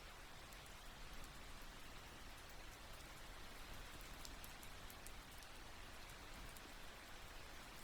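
Faint, light rain falling: an even, steady hiss with scattered small, sharp drop ticks.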